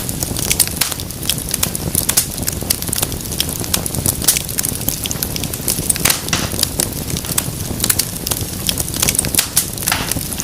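Wood fire in a fireplace crackling, with many sharp, irregular pops and snaps over a steady low sound of the flames.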